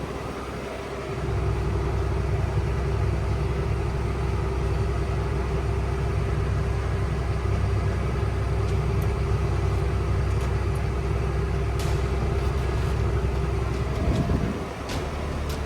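Farm machinery engine running steadily, a low rumble with a constant hum. It comes up about a second in and drops away near the end.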